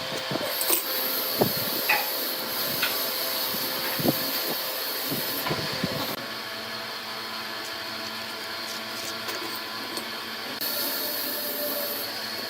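A workshop power tool running steadily with a hum and hiss, with several knocks and taps in the first few seconds and bursts of high hissing that come and go.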